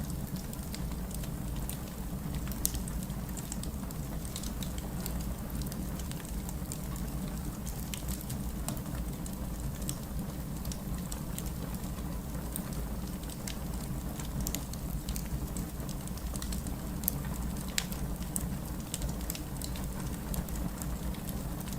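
Steady heavy rain mixed with a crackling wood fire, with frequent sharp pops and snaps scattered over a continuous low rushing noise.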